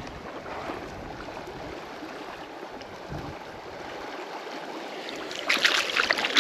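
River water running steadily, then louder, irregular splashing from about a second before the end.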